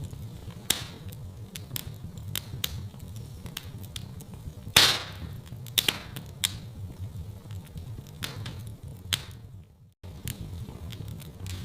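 Wood fire in a fireplace crackling: irregular sharp pops and snaps over a steady low rumble of flame, with one loud pop about five seconds in. The sound cuts out briefly just before ten seconds in.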